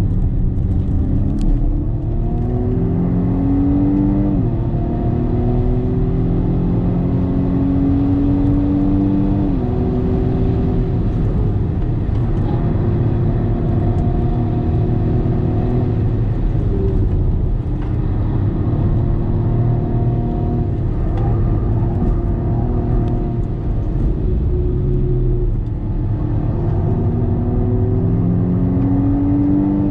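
BMW M135i F40's turbocharged four-cylinder engine heard from inside the cabin under hard acceleration, its pitch climbing and dropping sharply at upshifts about four and nine seconds in. It then runs at a fairly steady pitch, falls away around twenty-five seconds and climbs again near the end.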